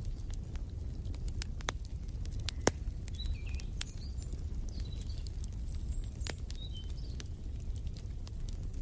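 Wood fire in a fireplace crackling, with irregular sharp pops over a steady low rumble; the loudest pop comes about a third of the way in. Small birds chirp briefly in the middle.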